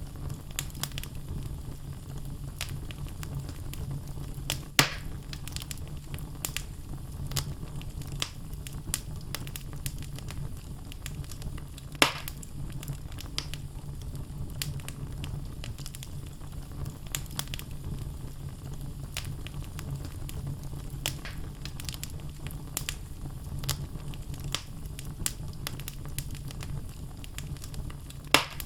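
Wood logs burning in a fireplace: a steady low rumble with frequent small crackles and a few louder sharp pops, the loudest about twelve seconds in.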